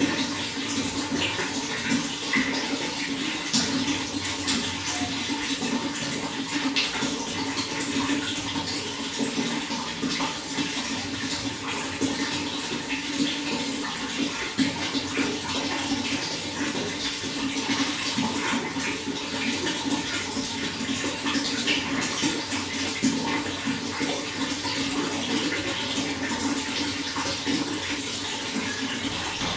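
Running water flowing steadily, a continuous rush flecked with many small splashes and droplets.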